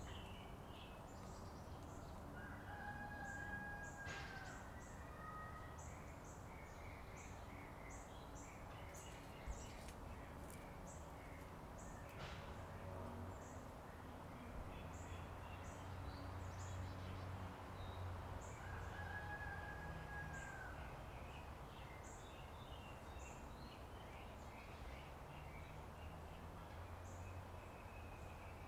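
A rooster crowing twice, each crow about two seconds long, over a steady low machine hum, with small birds chirping throughout.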